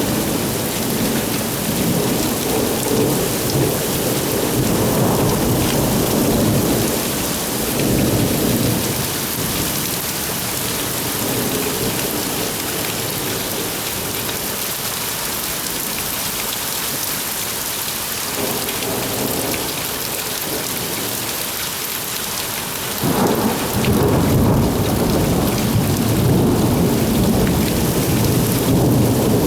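Heavy rain falling steadily with rolling thunder. The rumble dies down through the middle, then a fresh peal of thunder breaks in suddenly about three quarters of the way through and keeps rolling.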